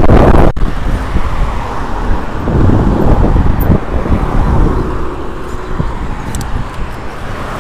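Car road and engine noise picked up by a dashcam, a steady low rumble with tyre and traffic hiss. There is an abrupt change about half a second in.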